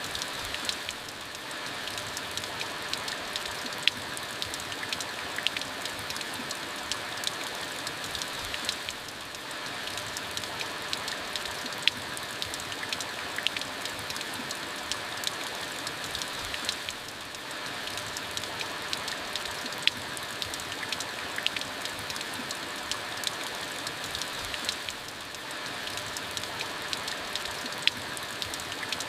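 Steady rain: a dense, even hiss with individual drops ticking sharply on a surface. The pattern dips briefly and repeats about every eight seconds.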